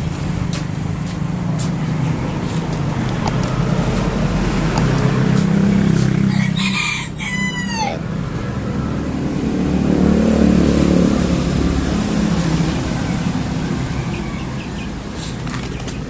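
A rooster crows once, about seven seconds in, over a low rumble of passing road vehicles that swells twice.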